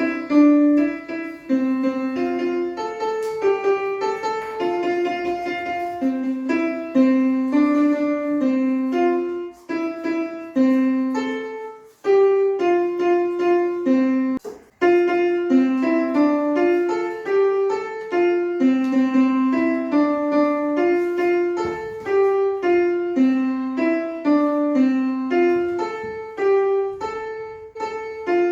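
Electronic piano notes played one at a time in a simple, uneven melody over a handful of pitches, as when a child presses colour-keyed pads on a Makey Makey keyboard; the notes break off briefly twice near the middle.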